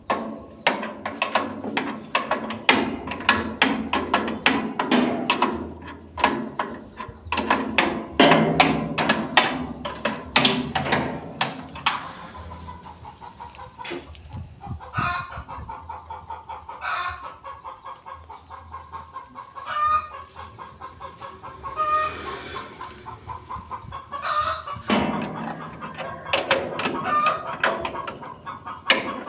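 Chickens clucking in rapid runs of short calls, with a few higher pitched calls in the second half.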